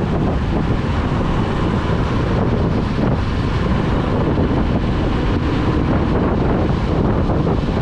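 Steady wind rushing over the microphone of a small motorcycle being ridden in the rain, with the Corven 110 Energy's engine and road noise buried underneath.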